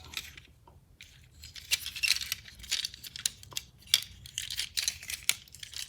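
Plastic transforming robot-truck toy being handled and twisted, its parts giving many short irregular clicks and rattles.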